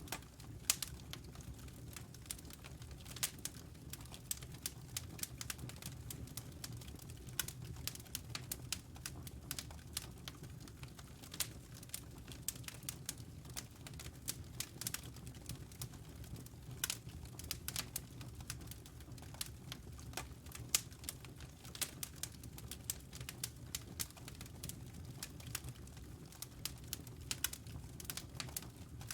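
Wood logs burning in a fireplace, crackling with irregular sharp pops over a steady low rumble of the fire.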